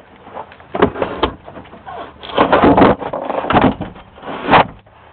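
Irregular knocks and rustling noise around an old rusted car, about five bursts, the longest a little over two seconds in.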